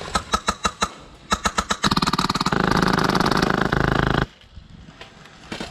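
HPA airsoft M249 with a PolarStar engine firing: rapid strings of sharp shots, then from about two seconds in a long, very fast full-auto burst of about two and a half seconds that cuts off suddenly.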